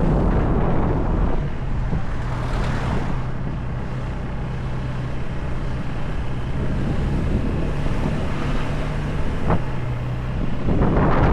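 Motorcycle on the move: a steady engine hum under heavy wind noise on the microphone, with louder rushes of wind at the start and near the end.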